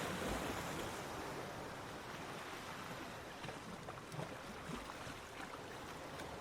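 Ocean surf on a beach: a wave washing in at the start and slowly easing off, with a steady rush of water.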